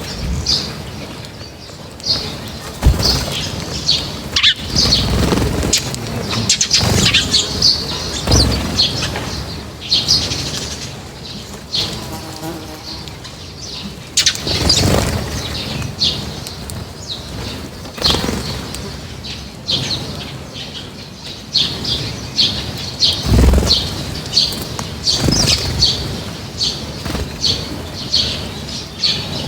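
A flock of birds at a feeder chirping constantly in short, high calls, with frequent bursts of wing flutter as birds come and go.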